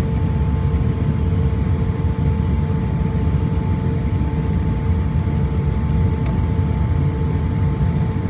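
Steady low rumble of a vehicle running, heard from inside, with two steady whining tones over it.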